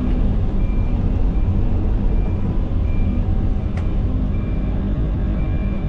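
Heavy equipment's diesel engine running steadily under load, with a backup or travel alarm sounding short high beeps about once a second, typical of an excavator moving while clearing trees.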